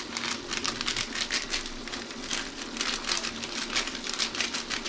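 Chicken pieces frying in hot oil in a large metal pot, sizzling and crackling steadily, while a spice packet rustles as masala powder is shaken in.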